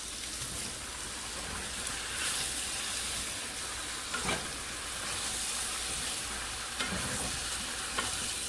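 Mushroom stew sizzling in a stainless steel pan while being stirred with a wooden spoon, with a few light knocks of the spoon against the pan.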